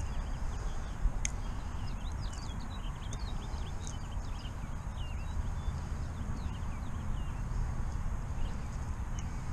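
Small birds chirping in quick, short notes for the first few seconds, over a steady low rumble. There is a sharp click about a second in.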